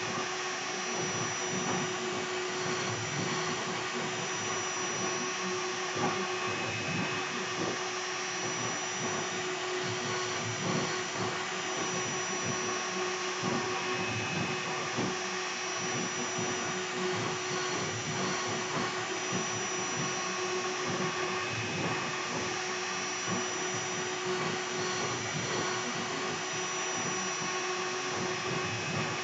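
The 2.2 kW air-cooled spindle of a CNC router running steadily while it V-carves wood, a constant whine over a steady rushing noise.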